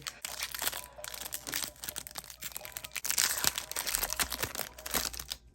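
Crinkling of a foil booster-pack wrapper being handled and opened, a dense crackle of small clicks that is loudest about three seconds in.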